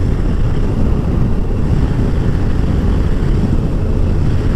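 Steady drone of wind rush and engine from a Kawasaki ZZR1400 inline-four sport-tourer cruising at an even speed, heavy in the low end.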